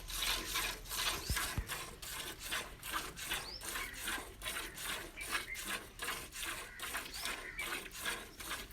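Hand-milking a cow into a pail: rhythmic squirts of milk, about three a second.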